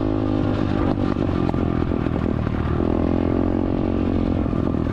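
Small dirt bike's single-cylinder engine running under way, its note easing off about a second in, then rising and falling again as the throttle is worked. The owner says its carburettor still needs adjusting.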